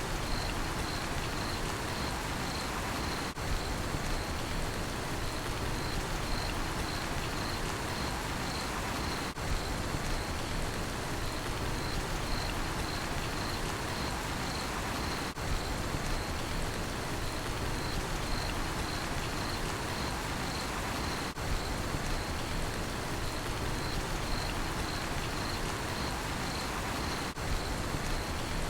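Steady rain falling, with a cricket chirping in an even, pulsing rhythm over it. There is a short dropout about every six seconds.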